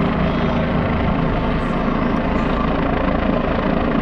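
Helicopter hovering close by: steady, loud rotor chop and turbine noise.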